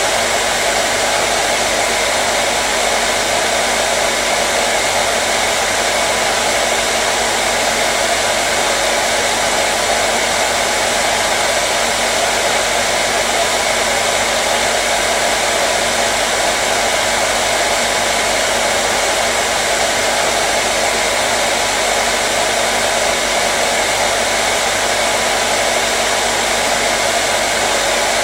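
Hair dryer running steadily: a loud, even whoosh of blown air with a faint motor hum, unchanging throughout.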